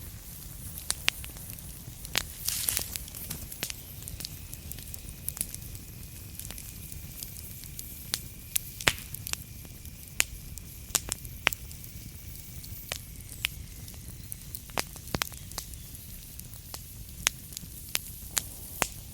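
Burning wood fire crackling: irregular sharp pops and snaps over a low steady rumble, with a short hissing flare about two and a half seconds in. A faint high whistle holds from about four seconds in to about fourteen, dropping slightly as it fades.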